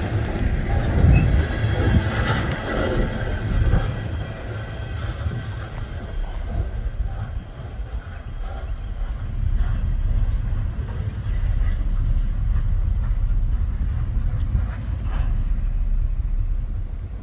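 Freight train rolling past: a steady low rumble of wheels on rail with scattered clicks, and a thin high wheel squeal from about three and a half to six seconds in.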